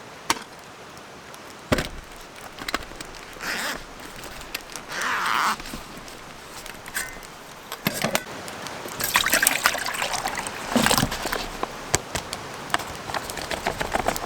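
A creek trickling and burbling, with scattered clicks, knocks and rustles of things being handled, which come thickest around the middle.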